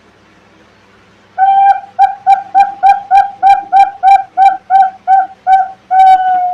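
Zebra dove (perkutut) song: a long clear coo, then about a dozen short staccato coos at roughly three a second, ending on a longer, slightly falling note. This is the call used as a lure to attract perkutut.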